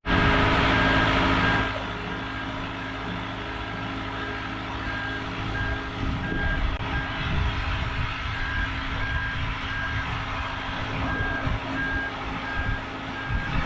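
Boatyard travel lift running with its engine humming and its movement alarm beeping steadily, about one and a half beeps a second; the engine noise is louder for the first second or two.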